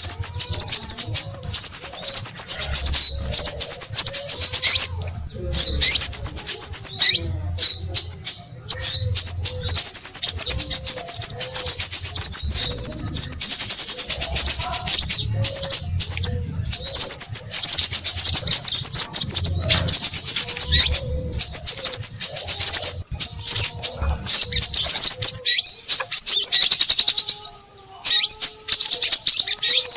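Scarlet minivets (sepah raja) calling busily: dense runs of rapid, high, thin chirps broken by short pauses, played back as a bird-lure recording.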